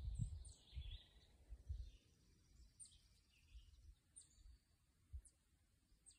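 Faint outdoor birdsong: scattered high chirps and short downward-sweeping calls, with a low rumble in the first two seconds.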